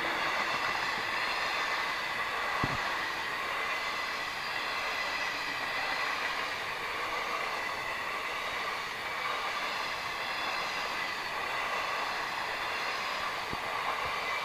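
Indian Railways mail train passing at speed: a steady rush of wheels on rails and coaches, with one sharp knock about two and a half seconds in.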